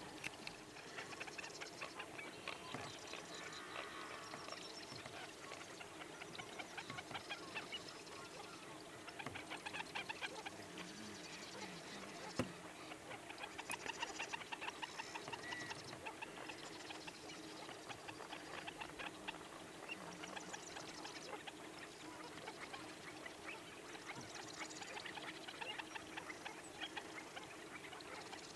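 A dense chorus of many waterbirds calling over one another, short rapid notes repeating without a break. A single sharp click comes about twelve seconds in.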